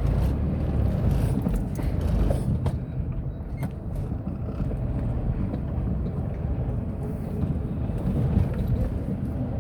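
Tata Nano on the move, heard from inside the cabin: a steady low rumble of engine and road noise, with a few short clicks and knocks scattered through it.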